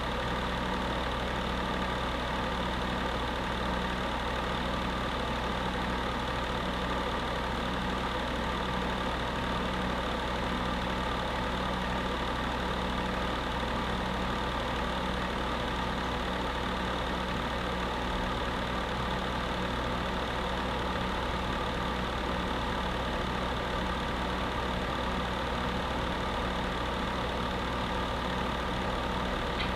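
Electric space heater running steadily, its fan giving an even whir over a low motor hum.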